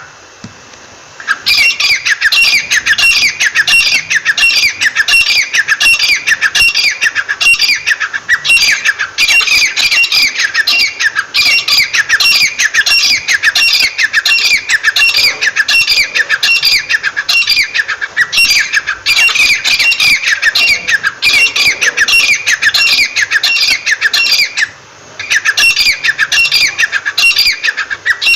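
A bird calling loudly in a fast, unbroken series of short, falling notes, several a second, with one brief pause near the end.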